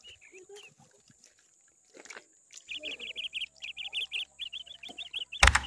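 Small birds chirping, the calls coming in quick repeated series from about halfway through. A short, loud noise cuts in near the end.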